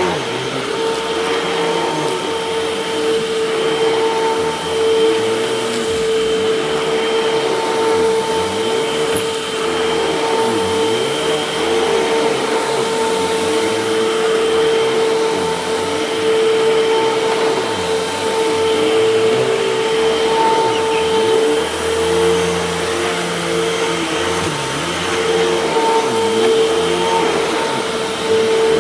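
Freshly refurbished Hoover canister vacuum running steadily, its motor giving a constant high whine over the rush of airflow.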